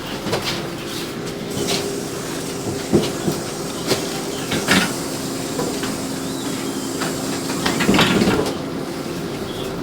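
Cabin of a LiAZ 5292 city bus: a steady engine drone with irregular knocks and rattles from the body and fittings, and a louder burst of rattling about eight seconds in.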